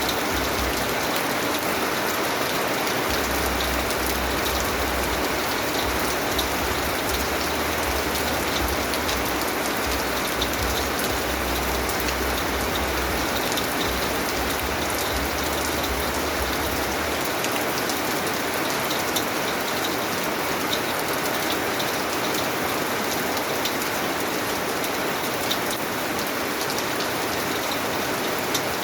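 Steady rain falling on a surface, a dense hiss with the patter of individual drops. A low rumble runs under it from a few seconds in until just past halfway, where it stops suddenly.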